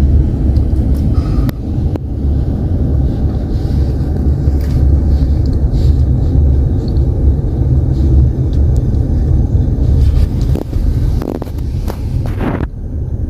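Car moving slowly, heard from inside the cabin: a loud, steady low rumble of engine and road noise.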